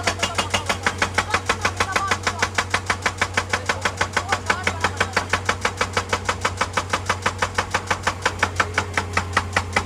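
Excavator-mounted hydraulic rock breaker hammering rock in a fast, even rhythm of about six or seven blows a second, over the steady hum of the excavator's diesel engine.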